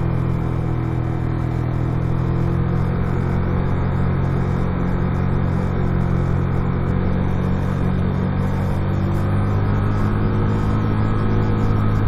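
Motorcycle engine running at a steady pitch on a steep downhill, slightly louder in the last few seconds.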